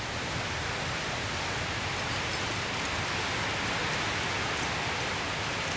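Glacial meltwater waterfall rushing: a steady, noisy wash of pouring water.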